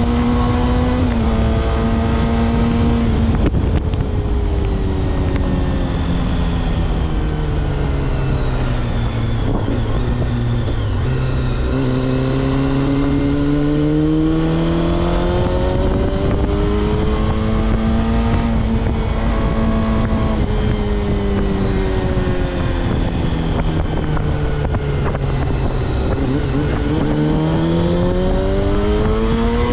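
Honda CBR250RR MC22's inline four-cylinder engine under way, its pitch climbing and dropping several times as the rider accelerates and eases off, with a steady wind rumble on the helmet-mounted microphone.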